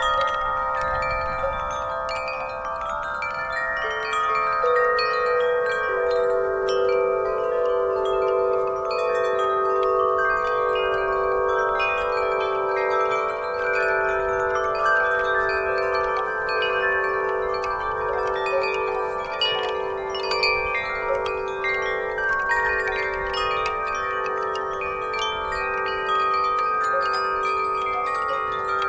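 Wind chimes ringing in the breeze, many tuned tones struck over and over and overlapping as they ring on. A low tone of the set comes in about four seconds in and keeps sounding under the rest.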